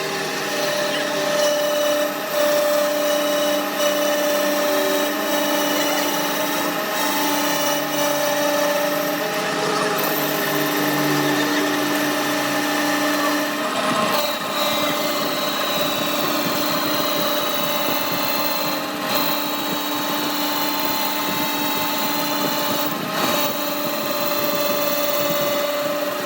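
An electric machine tool running steadily with a whine of several held tones and occasional clicks, its pitch pattern shifting about halfway through.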